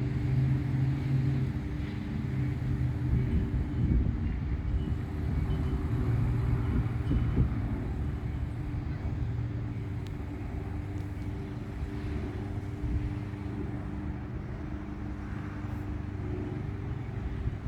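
Steady low drone of a running engine, like a vehicle's, with a constant hum.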